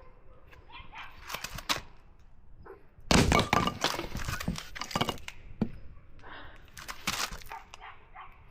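Hand hatchet striking firewood several times. About three seconds in there is a loud run of cracking as the wood splits, followed by a couple more single chops.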